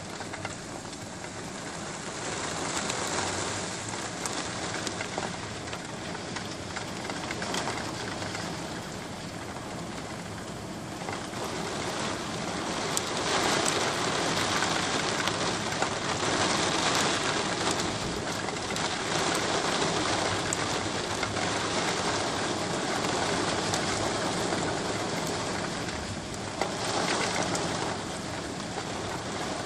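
Heavy rain pouring down onto a street, a steady hiss that swells louder about halfway through and again near the end.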